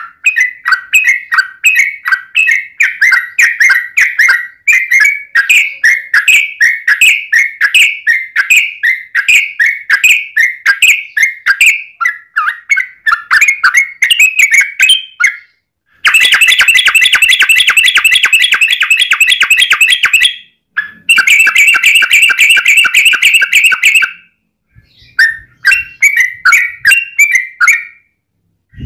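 Yellow-vented bulbul (trucukan) singing: a fast run of repeated chirping notes, then two long, rapid rattling rolls about 16 and 21 seconds in, followed by more chirps.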